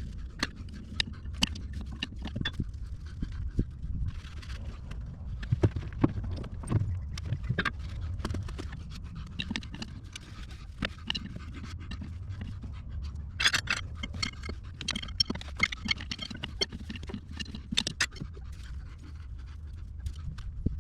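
Hand tools clicking, knocking and scraping on a Cat 312 excavator's hydraulic hose fittings as the lines are worked loose from underneath, in scattered sharp strokes over a low steady rumble.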